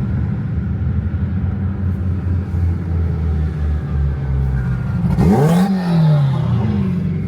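Car engine running steadily, then revved sharply about five seconds in, its pitch climbing quickly and falling back, followed by a second, smaller rev near the end.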